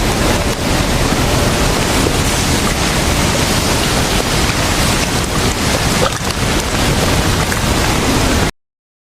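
Strong blizzard wind buffeting the microphone: a loud, steady rush of noise that stops abruptly near the end.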